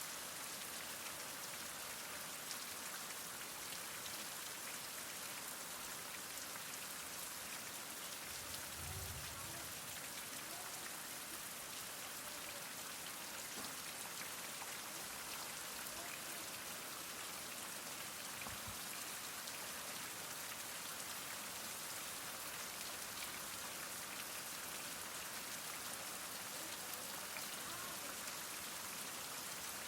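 Heavy rain falling steadily, an even hiss of countless drops, with a brief low rumble about nine seconds in.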